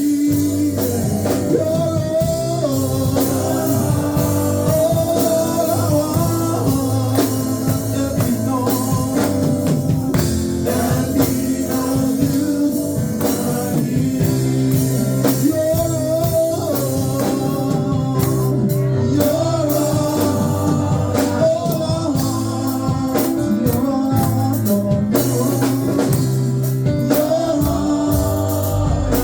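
Live gospel worship music: a band with bass and drums playing steadily under singing.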